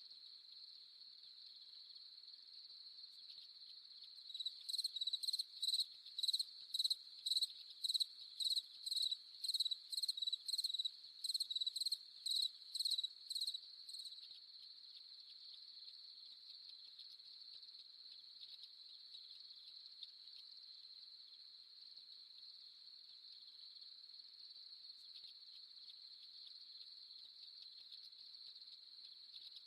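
Steady chorus of crickets trilling. From about four seconds in to about fourteen seconds in, one nearer cricket chirps loudly over it in an even rhythm of about two chirps a second.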